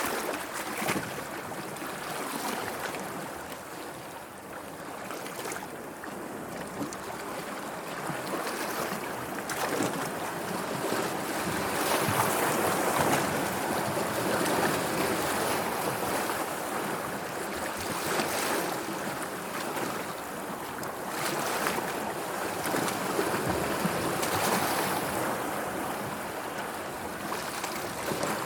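Sea water washing and surging in waves, swelling and easing every several seconds, loudest about halfway through.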